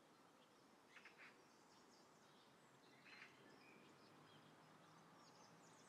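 Near silence: faint outdoor background hiss with a few faint bird chirps, about a second in and again about three seconds in.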